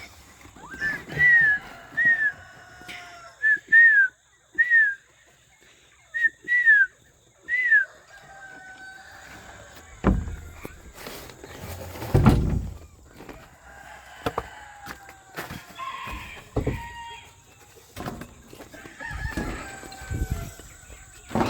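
Penned poultry calling: a run of about eight short, sharp calls in the first eight seconds, then softer clucking, with a few thumps around ten to thirteen seconds in.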